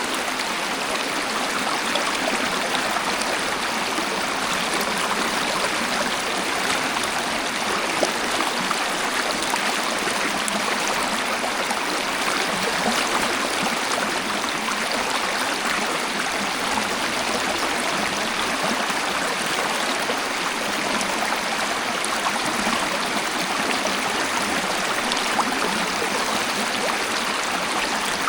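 Waterfall: a steady, even rush of flowing and falling water, with little deep rumble.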